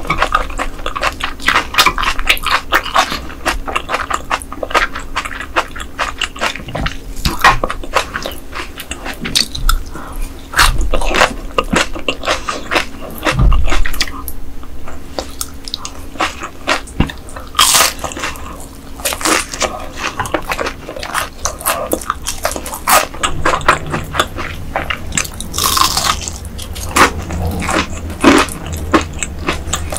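Close-miked eating sounds: chewing and biting with many short, sharp crunches and clicks.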